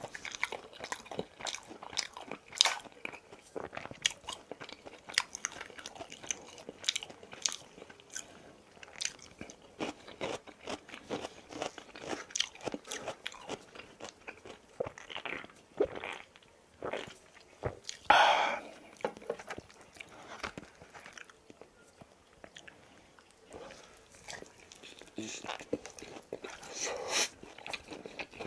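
Close-miked crunching and chewing of boneless fried chicken eaten with a fork: many short, crisp crunches and bites throughout, with one louder, longer sound about two-thirds of the way through.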